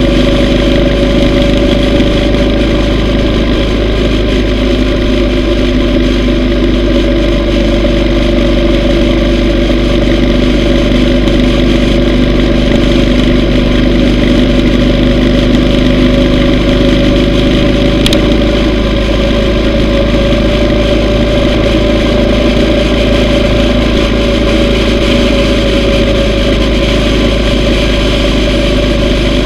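Yamaha V Star 950's air-cooled V-twin engine running at a steady cruise, with an even low rumble of wind noise underneath.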